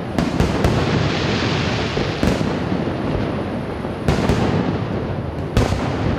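Aerial firework shells bursting in a continuous barrage: sharp bangs over steady crackling and rumble. Several bangs come in quick succession at the start, then single loud reports every one and a half to two seconds.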